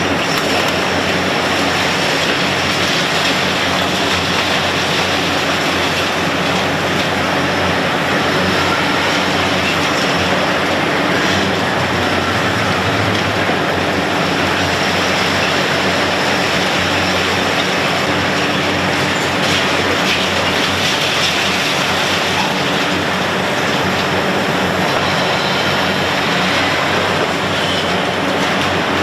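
Heavy machinery running steadily: a continuous engine drone under dense metallic grinding noise.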